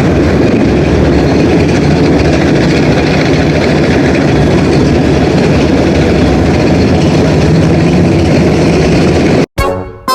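Heavy engine running steadily at idle, cutting off abruptly about nine and a half seconds in, then music starts.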